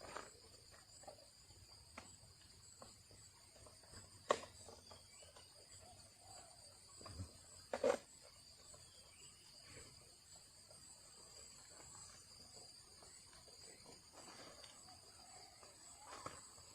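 Steady, high-pitched drone of crickets or similar insects, with two sharp clicks, one about four seconds in and one about eight seconds in.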